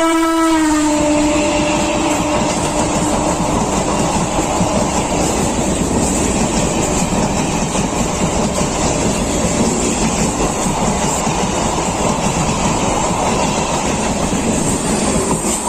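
An electric multiple unit (EMU) local train passing at speed. Its horn ends about a second in with a drop in pitch, and the coaches then rush past with the wheels clattering over the rail joints.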